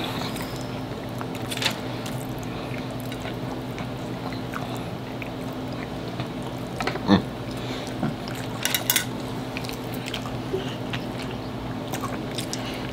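Close-miked eating: wet chewing and mouth sounds with a few sharp clicks of forks against the plate, over a steady low hum.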